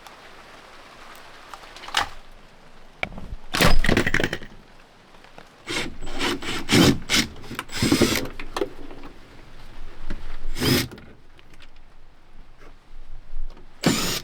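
Irregular knocks, thuds and scraping of hands and tools working in the wooden sailboat's hull. The loudest knock comes about four seconds in, then a cluster of clattering and scraping, and two more single knocks later.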